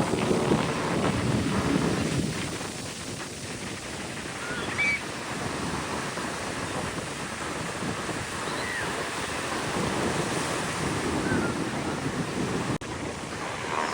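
Ocean surf breaking on the beach, with wind buffeting the microphone. An aircraft engine fades out over the first couple of seconds, and a few faint short chirps come through the surf noise.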